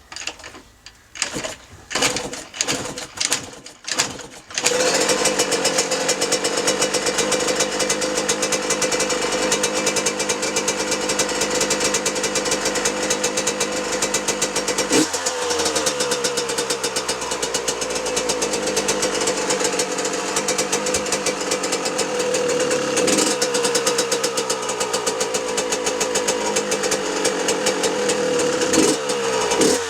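2006 Yamaha YZ125's single-cylinder two-stroke engine being kick-started on choke: a few short bursts as it fires, then it catches about four and a half seconds in and runs on, the revs dropping and rising a couple of times. Loose screws on the freshly rebuilt bike rattle as it runs.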